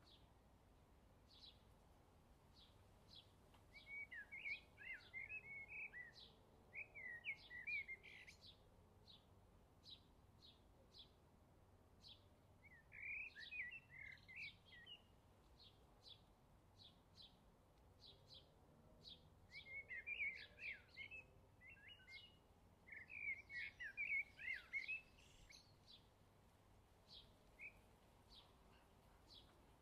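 Faint birdsong. One bird repeats a short high chirp about once or twice a second, while another sings brief twittering phrases several times.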